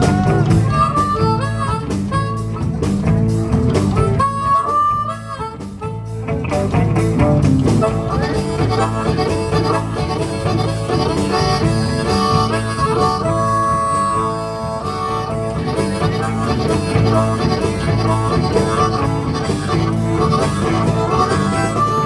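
Live blues band playing an instrumental break: a harmonica solo of held and bending notes over guitar and a steady beat.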